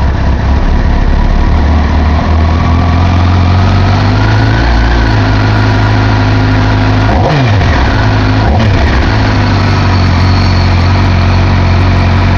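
A 2008 Kawasaki ZX-10R's inline-four engine idles steadily just after starting. It is blipped twice, about seven and eight and a half seconds in, and each time the pitch jumps up and falls quickly back to idle. It is running well.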